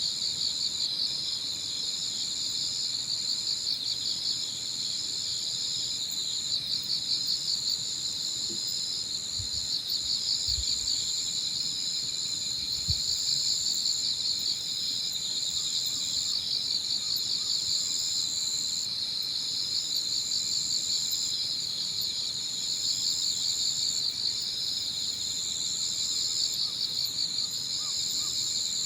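Chorus of crickets and other autumn insects singing steadily. Several high-pitched trills are layered at different pitches: one pulses rapidly, and a higher one breaks off and starts again every few seconds.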